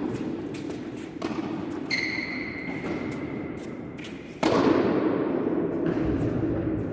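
Tennis play on a court: scattered sharp knocks of racquet hits, ball bounces and footsteps. A steady high squeal lasts about two seconds near the middle.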